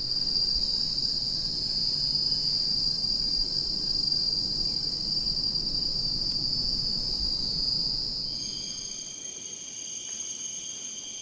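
Tropical cicadas droning, a steady high-pitched buzz. About eight seconds in, the drone changes to a different set of high tones.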